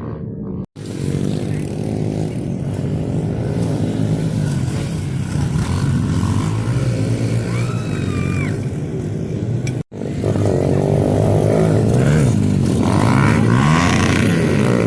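Pit bike engines revving up and down as the bikes ride the track. The sound cuts off abruptly about a second in and again near ten seconds.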